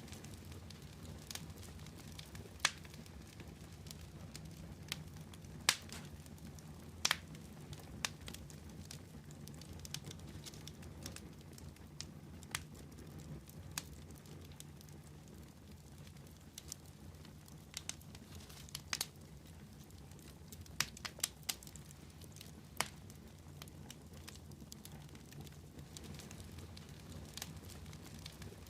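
Fire crackling: a steady low rush with irregular sharp pops and snaps, a handful of them much louder than the rest.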